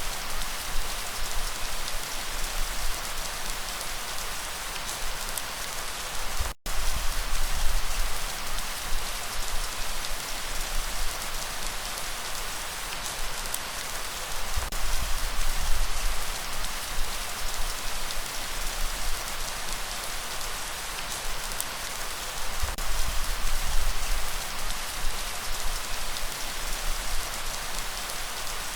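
Steady, heavy rain falling, a dense even patter with scattered sharper drop ticks and a low rumble underneath. The sound cuts out for an instant about six and a half seconds in, then carries on as before.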